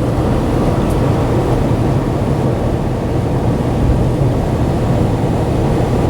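Steady low rumble inside the cab of a 2013 Dodge Ram 1500 with a Hemi V8 cruising: engine and tyre noise on a snow-covered road.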